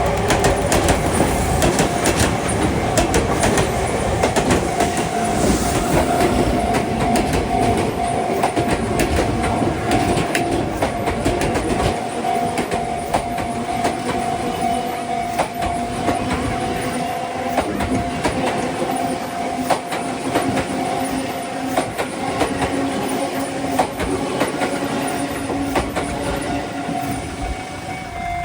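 Electric commuter train running past on the line, its wheels clicking over the rail joints with a little squeal, fading near the end. A level crossing's warning bell rings steadily throughout.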